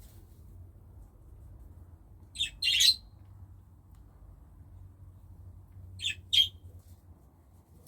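Budgerigars giving short, sharp calls in two quick pairs, the first about two and a half seconds in and the second about six seconds in.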